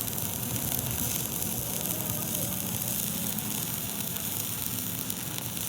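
Electric arc welding: the arc giving a steady crackling hiss, with a faint low hum under it.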